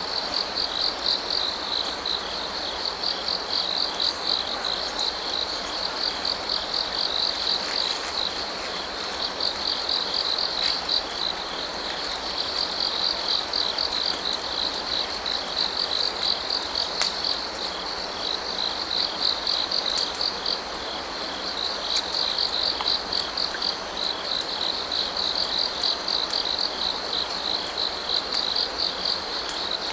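Crickets chirping continuously in a fast, pulsing trill, over the steady rush of a stream, with a few faint clicks.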